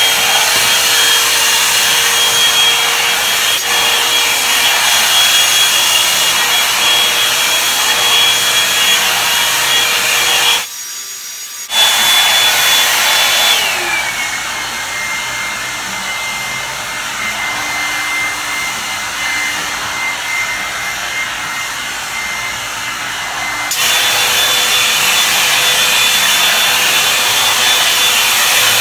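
Revlon One-Step hot air brush running on its high setting with a steady motor whine. It cuts out for about a second around ten seconds in and restarts. A few seconds later the whine winds down to a lower speed, then jumps back up to high about five seconds before the end.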